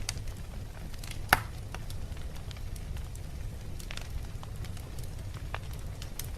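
Wood fire burning in a fireplace: a steady low rush of flames with scattered crackles and pops from the logs, the loudest pop about a second in.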